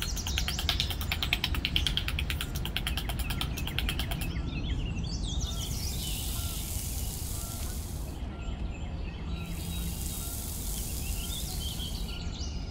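Birds chirping, with a fast rattling trill in the first few seconds. Then come two stretches of gritty hissing, each a couple of seconds long, as a small pointed trowel is scraped through fine sand.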